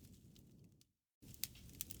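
Campfire crackling faintly: scattered small pops over a low rumble of burning wood. It fades into a brief moment of dead silence about a second in, then comes back with a few sharper pops.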